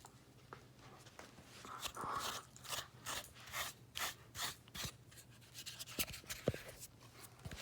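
A grooming brush raking through a German Shepherd's thick, shedding coat: repeated scratchy swishes, about two strokes a second.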